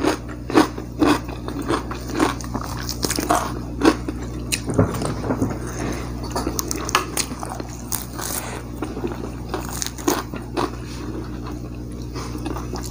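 Close-miked chewing and biting of fried duck eaten by hand: irregular crunches and clicks of the mouth, with a steady low hum underneath.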